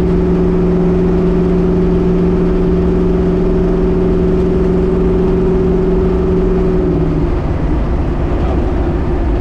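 Twin-turbo LS V8 of a Chevy S10 race truck running at a steady engine speed, a constant drone over a deep rumble; the drone wavers and drops away about seven seconds in.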